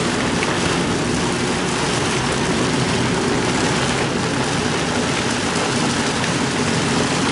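Steady noise of a car driving in a downpour, heard from inside the cabin: rain on the car and tyres on the wet road, with a low hum of the car running underneath.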